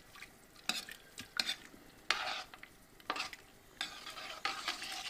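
Potatoes going into a pot of vegetable soup and being stirred in: a few irregular splashes and stirring noises, with a longer stretch of stirring near the end.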